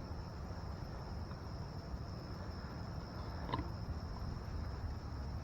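A steady, high-pitched insect trill, like crickets, over a low outdoor rumble, with a brief chirp-like sound about three and a half seconds in.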